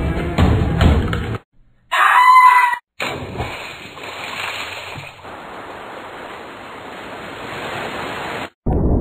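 Soundtrack music cuts off about a second and a half in. After a moment of silence comes a loud, high-pitched call lasting about a second, then a steady water-like hiss that runs until just before the end.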